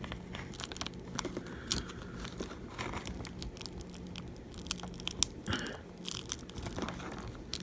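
Irregular small clicks, crackles and scrapes of a pry tool working under a glued-in iPhone 7 Plus battery, breaking it loose from its torn adhesive, over a faint steady hum.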